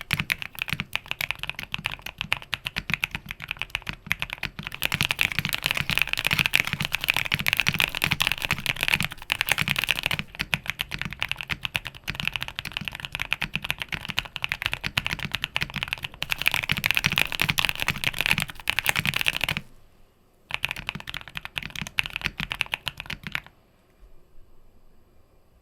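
Qwertykeys QK65 foam-filled 65% mechanical keyboard being typed on fast, a dense run of keystrokes with its deep "thoccy" sound. About twenty seconds in the typing breaks off briefly, resumes for a few seconds, then stops near the end.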